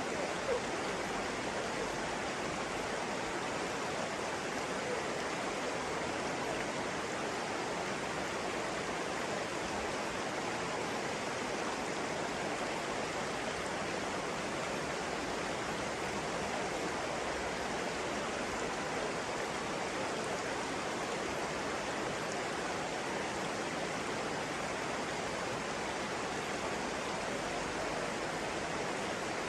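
Flowing water rushing steadily, an even, unbroken wash of sound like a stream or small cascade.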